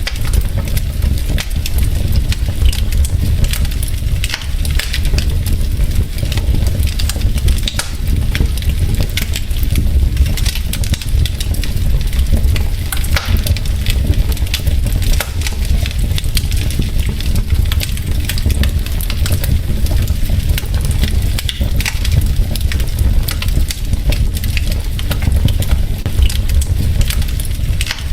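Wood fire burning in a fireplace: burning logs crackling with frequent small pops over a steady low rumble of the flames.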